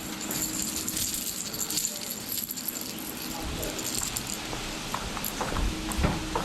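Small hard objects rattling and jingling lightly, on and off, for about four seconds, over a low steady hum, with a few duller knocks near the end.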